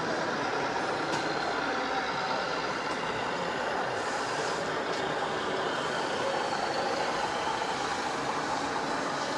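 A radio-controlled scale model truck running, with a steady mechanical, truck-like noise.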